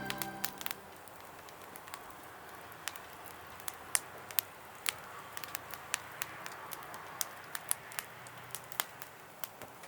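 Small wood fire crackling: irregular sharp pops and snaps, a couple of times a second, over a low steady hiss.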